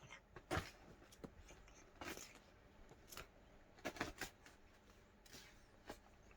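Faint, scattered rustles and soft taps of a ribbon toy being handled and moved about during play with a cat, about seven or eight short sounds with the loudest about four seconds in.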